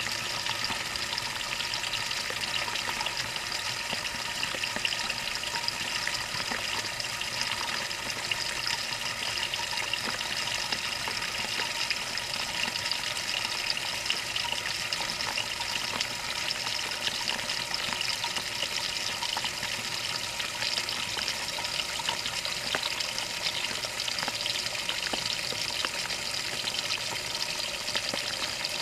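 Water pouring steadily into a Maytag washing machine's tub, an even hiss and splash heard from inside the tub, as the machine fills for the wash.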